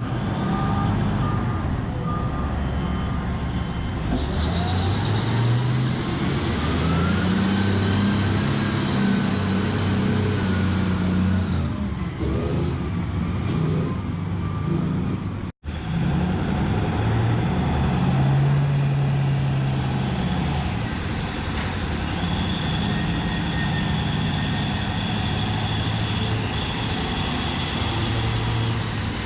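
Komatsu 730E diesel-electric haul truck running, its engine note stepping up and down, with a whine that rises and falls in pitch. Short repeated beeps sound in the first few seconds, and the sound cuts out for a moment about halfway.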